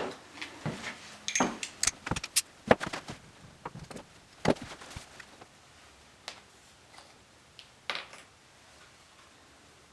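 Irregular metallic clicks and clinks of a socket and socket wrench being handled, thinning out after about five seconds.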